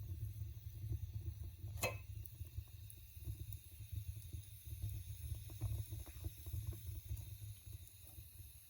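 Fire burning with a low rumble and scattered faint crackles, with one sharp pop about two seconds in; it grows a little quieter toward the end.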